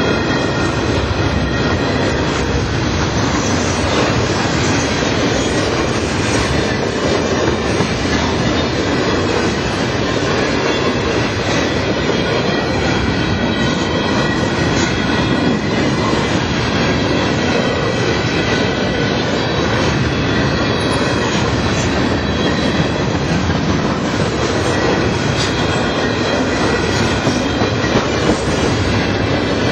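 Long string of empty covered hopper cars rolling past on a curve: a steady rumble of steel wheels on rail, with faint steady wheel squeal over it.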